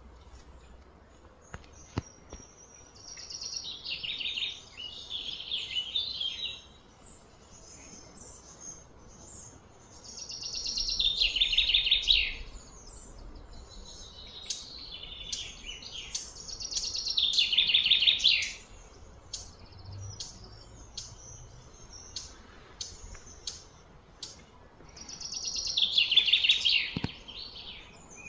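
Birds singing outdoors: a loud song phrase about two seconds long that falls in pitch, repeated four times, with short high chirps in between.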